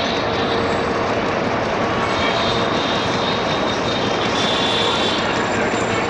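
Freight train hauled by an EMD GT38ACL diesel-electric locomotive, running with a steady, loud rumble of engine and wheels on rail.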